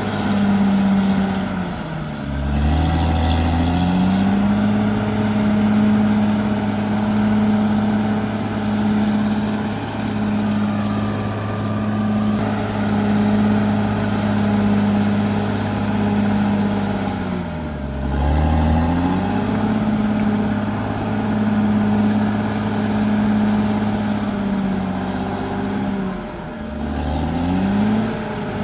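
Caterpillar D6R XL bulldozer's diesel engine running steadily at high revs. Its pitch drops sharply and climbs back three times: about two seconds in, about eighteen seconds in, and near the end.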